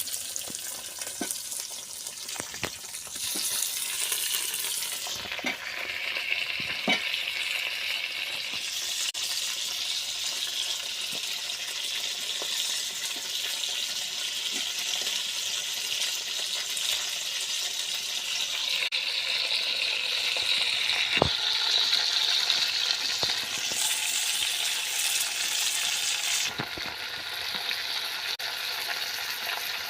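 Food sizzling steadily in hot oil in a cooking pot while it is stirred, with occasional clicks and knocks of the spoon against the pot.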